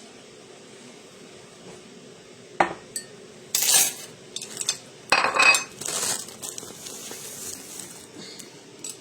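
Dishes and cutlery being handled: a couple of sharp clinks, then several short clattering, scraping bursts.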